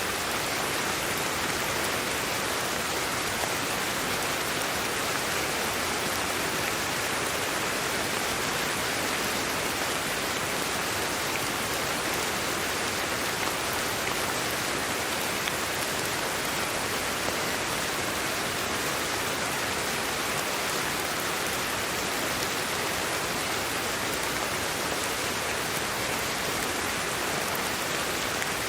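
Steady, even sleep-aid white noise with a rain-like hiss, never changing in level.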